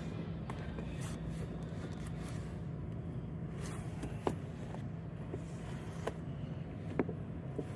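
Steady low hum of store background noise, with a handful of light, sharp clicks and taps, typical of plastic-blister die-cast car packs being handled on the display pegs.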